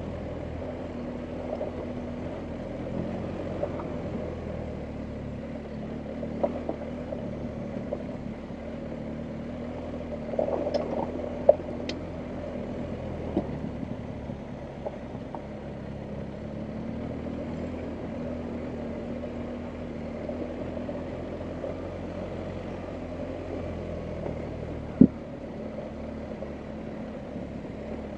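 BMW R1250GS Adventure's boxer-twin engine running at low, steady revs, with scattered clacks and knocks over it; the sharpest knock comes near the end.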